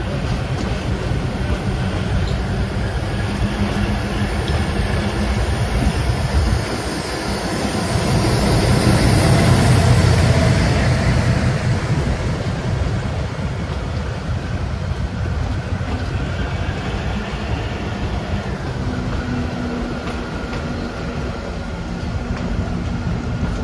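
Kangra Valley Railway narrow-gauge toy train running along the track: a steady rumble that swells louder about ten seconds in, then eases off.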